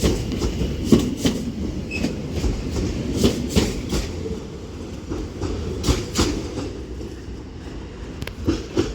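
Two coupled Class 730 Aventra electric multiple units on the move, their wheels clacking irregularly over rail joints and points above a steady low rumble.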